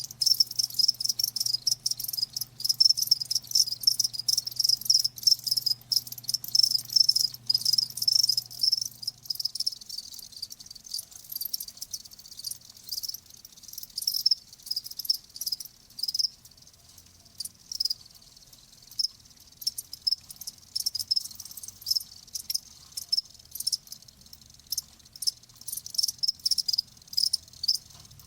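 Crickets chirping in high-pitched pulses. The chirping is dense for about ten seconds, then thins to scattered chirps.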